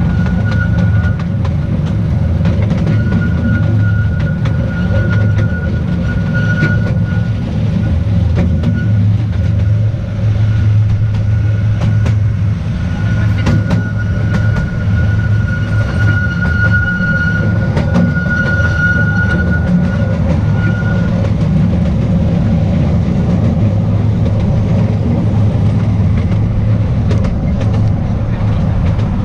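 The Petit Train d'Artouste, a small narrow-gauge tourist train, running along its track: a steady rumble of wheels on rail with scattered clicks. A thin, high wheel squeal comes and goes through the first two-thirds.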